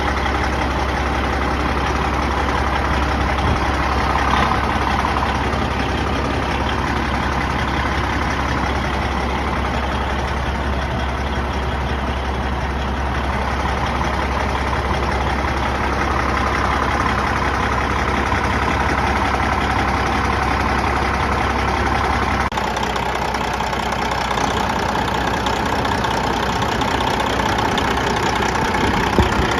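Detroit Series 60 12.7-litre diesel engine of a Freightliner Classic XL semi truck running steadily; its low rumble drops a little about two-thirds of the way through.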